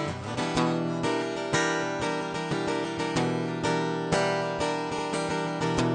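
Acoustic guitar played in a passage between the sung lines of a song, with steady, regularly repeating strums.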